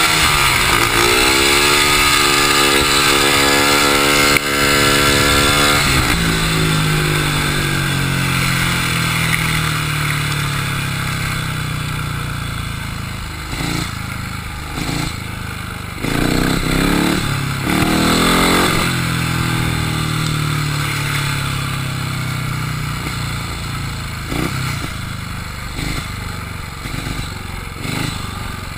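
Speedway motorcycle's 500cc single-cylinder methanol engine ridden hard round the track, heard close up. The revs climb and hold high, drop about six seconds in, pick up again about halfway through, then ease back.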